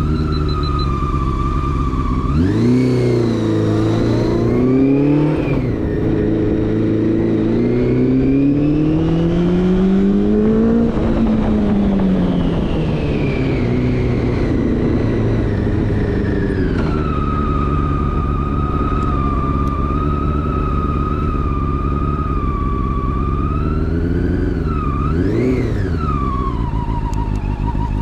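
Honda CB400 Super Four Spec 3's inline-four engine breathing through a Yoshimura slip-on exhaust while riding. The revs rise sharply about two seconds in, climb and fall with the throttle, hold steady through the middle and rise briefly near the end.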